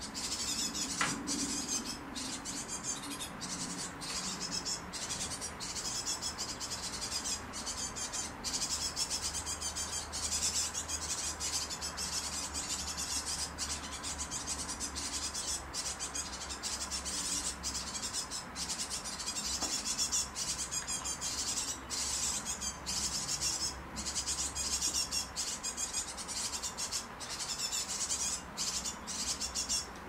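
Great tit fledglings begging for food: a dense, unbroken chatter of rapid, high-pitched calls from several young birds at once.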